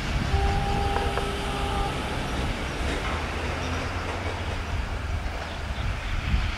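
Passenger train hauled by a diesel-hydraulic locomotive rumbling as it pulls away into the distance. A steady tone sounds for about a second and a half near the start.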